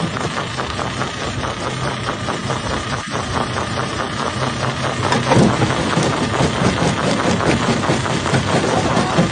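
Jaw crusher at work: its engine running steadily under dense, rapid cracking and crunching as rock is broken between the jaws, louder from about five seconds in.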